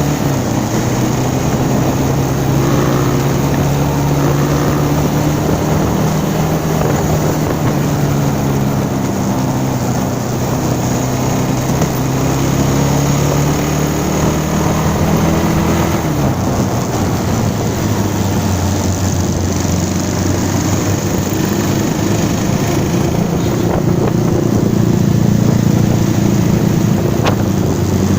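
Motorcycle engine running while riding, its pitch rising and falling with the throttle and dropping sharply about sixteen seconds in, with wind noise on the microphone.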